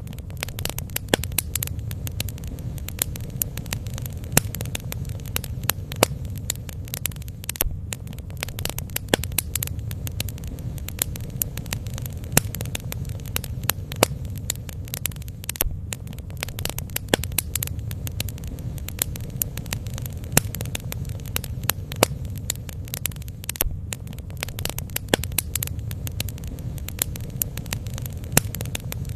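Bonfire crackling: frequent sharp snaps and pops at irregular intervals over a steady low rumble.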